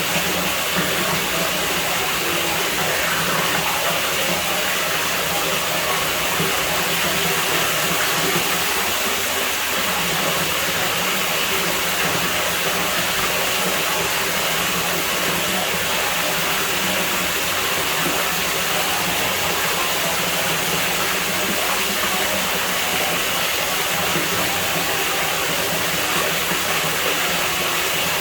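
Steady rushing of running water at a pool, a continuous even hiss that does not change.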